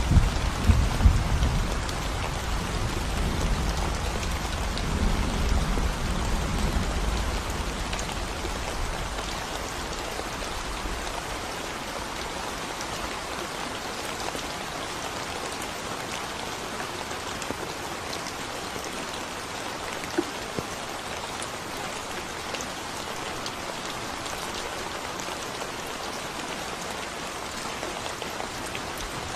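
Steady rain falling on a concrete road, an even hiss of drops. A low rumble of thunder dies away over the first ten seconds or so.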